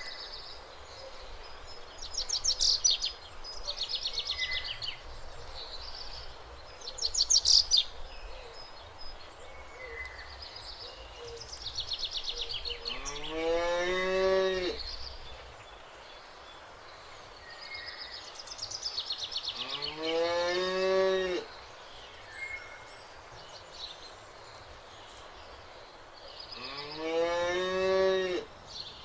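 Cows mooing: three long moos, each rising in pitch and then held for about two seconds, coming every six to seven seconds in the second half. Songbirds sing short high trilling phrases throughout, loudest in the first eight seconds.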